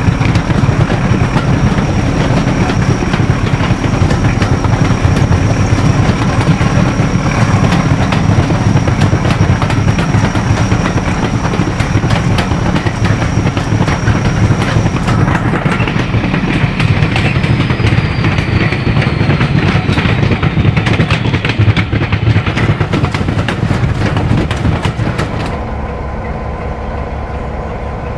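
Diesel-hauled heritage train running along the line, wheels clattering over rail joints with a loud rumbling running noise. About 25 seconds in the noise drops away as the train slows to a stand, leaving a quieter steady hum.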